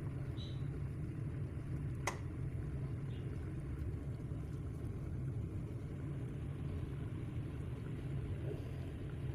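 Steady low background rumble, with a single faint click about two seconds in.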